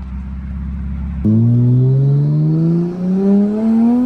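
Big-turbo Toyota Supra Mk5's B58 turbocharged inline-six running low and steady, then about a second in it goes to full throttle: the engine note jumps in loudness and climbs steadily in pitch as it pulls hard through the revs.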